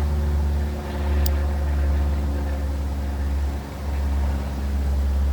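Loud, steady low rumble with a running engine's hum in it, dipping briefly near the end; a single short, sharp click about a second in.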